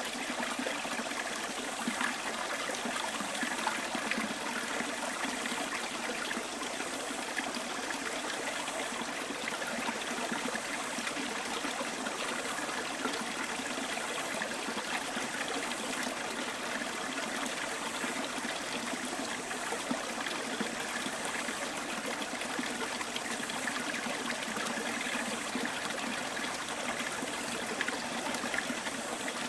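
Small stream running and trickling over stones, a steady burble of flowing water.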